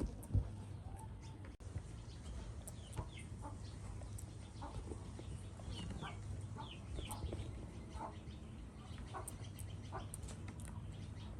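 Short falling chirps and clucks from an animal, repeated every second or so over a steady low hum.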